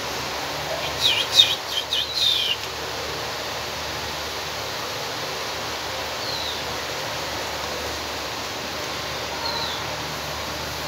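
Small caged bird chirping: a quick run of about five high, sharp chirps a second or so in, then two single short falling calls later on, over a steady background hiss.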